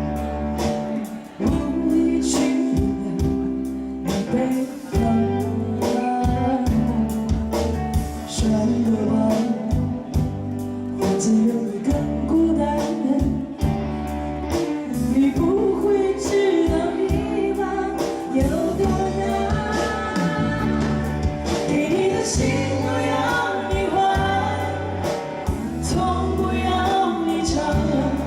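Live band playing a Chinese-language song: a singer carries the melody over bass and percussion, steady and loud throughout.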